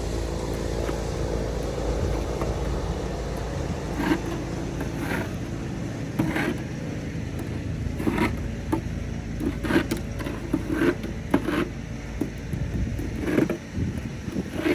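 Engine of a snowplow vehicle running steadily, fading in the second half, while a snow shovel scrapes and knocks on stairs, the strokes coming quicker near the end.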